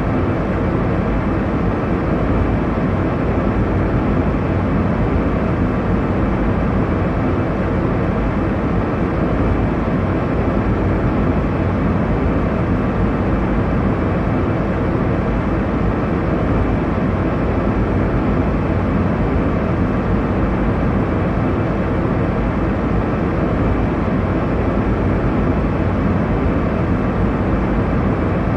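Steady airliner cabin noise in flight: a constant low rumble and rush of engines and airflow, unchanging throughout.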